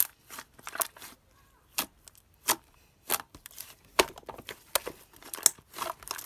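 Clear slime being pressed and squished by hand, giving irregular sharp wet clicks and crackly pops, roughly one every half second to a second.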